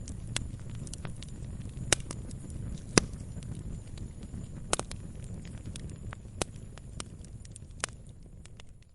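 Wood fire crackling in a fireplace: scattered sharp pops and snaps over a low steady rumble of the flames, the loudest pops about two and three seconds in. The sound fades down near the end.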